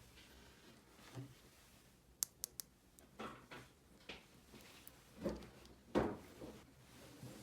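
Small plastic toy pieces handled by hand: three quick sharp clicks about two seconds in, then scattered rustling and light knocks, the loudest knock about six seconds in, like little toy doors and parts being opened, closed and set down.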